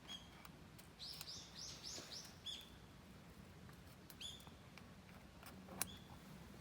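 Faint bird calls: a quick run of about five chirps a second in, and single short chirps scattered through the rest. A few faint clicks come between them, one sharper near the end.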